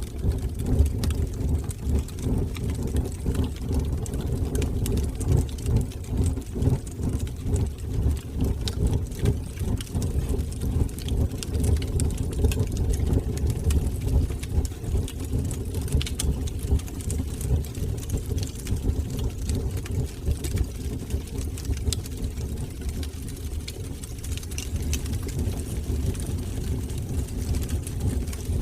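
Wood fire burning in a fireplace: a steady low roar of the flames, with frequent small crackles and pops throughout.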